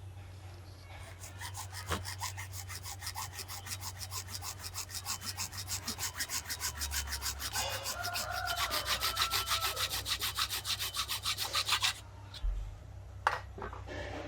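Hand tool scraping back and forth on hard material in rapid, even strokes, about five a second, like sawing or filing. The strokes stop abruptly near the end, followed by a couple of single knocks.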